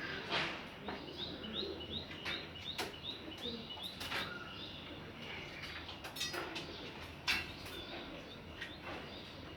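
Parrots calling: a run of short, repeated high chirps, about three a second, through the first half, with scattered brief sharp sounds throughout.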